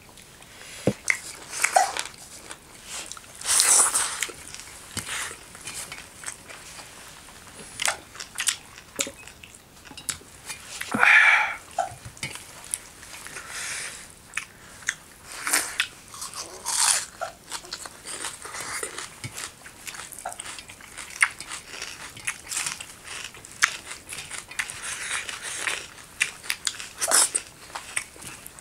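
Close-miked chewing and biting of chicken gizzard curry with rice: irregular wet crunches, smacks and mouth clicks, with a louder bite about eleven seconds in.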